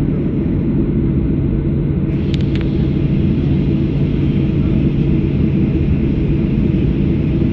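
Cabin noise inside a Boeing 737-800: a steady rumble of the engines and airframe with a low hum. Two short clicks come about two seconds in.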